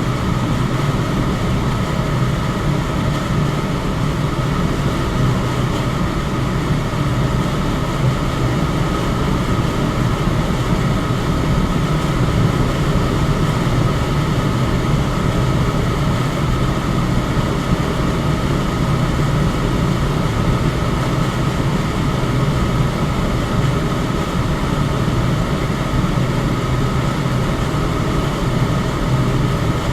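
Electric fan running steadily: an even rush of air with a low hum and a faint steady whine above it.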